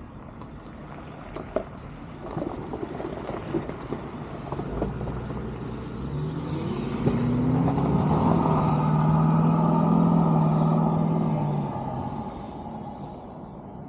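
A motor vehicle passing close by: its engine note rises in pitch and grows louder over several seconds, holds for a few seconds, then fades away. A few light clicks and rattles come before it.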